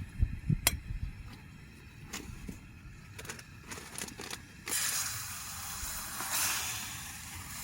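A few light knocks and a sharp click of things being handled, then about two-thirds of the way in water starts running and splashing with a steady rushing hiss.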